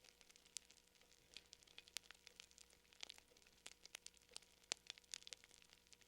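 Faint fire crackling: irregular snaps and pops of burning wood, several a second, with a sharper pop a little before the end.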